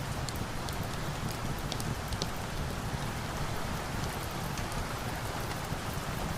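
Steady rain, with a low rumble underneath and scattered small sharp ticks, as of a wood fire crackling faintly.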